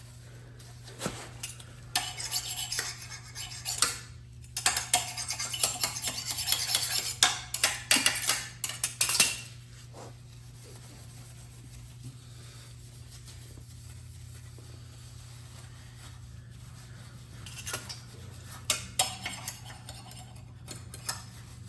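Hand scraping and scrubbing of a metal sprayer part with clinks of metal on metal, in two bouts: one early on lasting several seconds, then a shorter one near the end. A steady low hum runs underneath.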